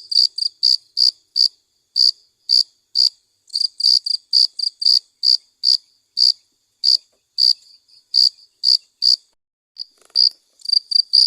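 Crickets chirping: short, sharp, high chirps about two to three a second in an uneven rhythm, sometimes coming in quick clusters.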